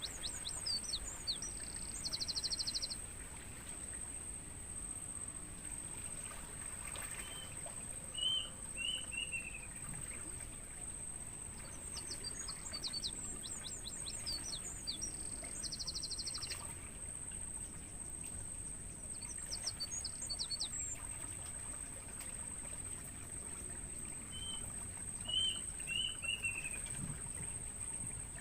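Crickets trilling in one continuous high-pitched tone, with songbirds singing over it. One bird gives a rapid high twittering phrase three times, twice ending in a buzz; another gives a short phrase of slurred whistled notes twice.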